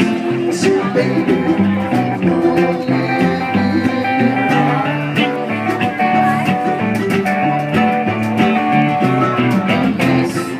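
Live acoustic band playing an instrumental passage: plucked guitar and mandolin with conga hand-drum hits.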